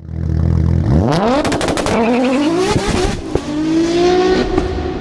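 Car engine idling, then revving up hard about a second in, its pitch climbing, falling back twice as if through gear changes, then held steady at a high note.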